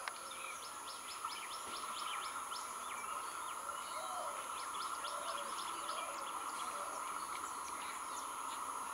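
Small birds chirping in quick, repeated short calls over a steady hiss.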